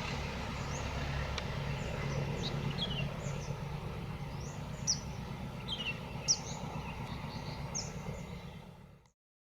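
Low, steady rumble of a diesel train's engine slowly dying away, with small birds chirping many times over it; the sound fades out about nine seconds in.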